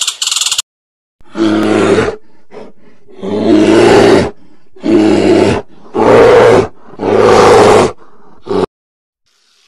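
Brown bears calling: a run of five loud, deep calls, each under a second long and about a second apart, then a short one near the end.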